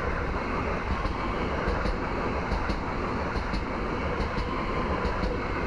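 Transilien Z 50000 (Francilien) electric multiple unit passing close by: a steady rumble and rush of wheels on rail, with frequent sharp clicks as the wheels run over the rail joints.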